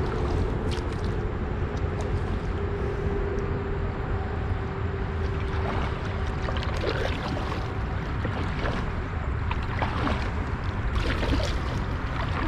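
Steady rumbling noise of wind and water on the microphone of a camera out on a kayak, with a faint steady hum through the first half and scattered small knocks.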